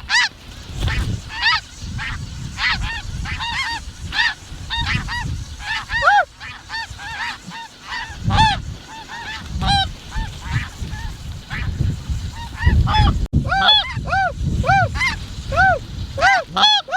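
Snow geese calling: many overlapping short, high honks, each rising and then falling in pitch, several a second. They thin out around the middle and grow dense again near the end.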